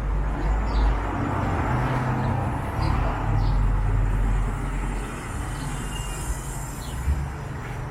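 Wind buffeting the microphone in strong gusts, over the steady noise of passing city traffic, with a few short bird chirps.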